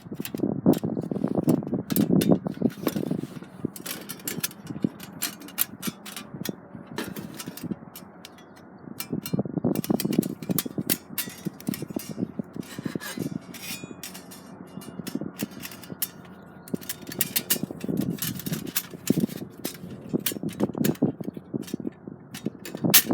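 Metal parts of a homemade flat-pack fire pit being slotted together, with many sharp clinks, knocks and scrapes of metal on metal at uneven intervals.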